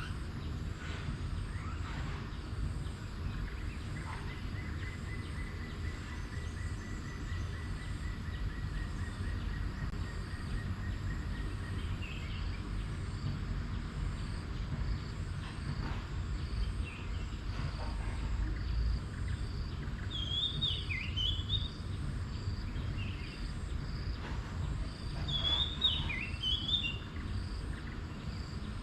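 Rural outdoor ambience under a steady low rumble. Insects keep up a continuous pulsing high-pitched chorus, one even trill runs for several seconds near the start, and a bird gives the same short warbling phrase twice in the second half.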